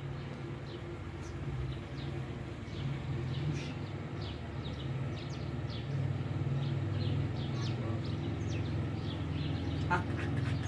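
Small birds chirping repeatedly in short, falling chirps over a steady low hum, with a sharp click near the end.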